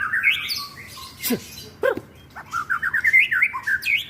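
White-rumped shama (murai batu) singing: quick runs of short chattering notes, broken about a second in by two sharp calls that sweep steeply downward, then another fast run of notes.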